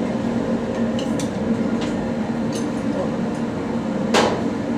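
Workshop sounds: a steady machine hum under a few light metal clinks, with one sharper knock about four seconds in.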